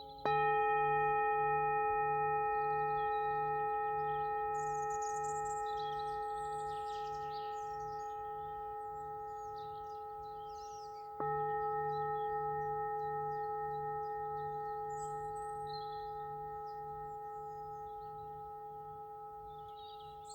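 A singing bowl struck twice, about ten seconds apart, each stroke ringing on with several overtones and slowly fading, its low hum pulsing in a steady wobble. Birds chirp faintly in the background.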